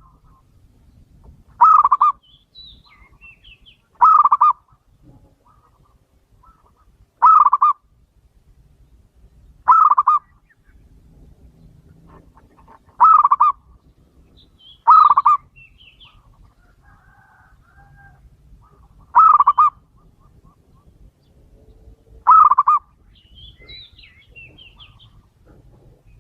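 Male zebra dove (perkutut) cooing: a short, rapidly pulsed coo repeated eight times, every two to three seconds, with faint high chirps of small birds between the calls.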